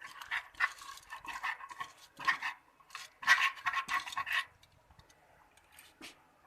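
A spoon scraping and clinking against steel kitchen vessels in irregular stretches, as soaked rice and dal or ground batter is spooned about. It goes quiet for the last two seconds.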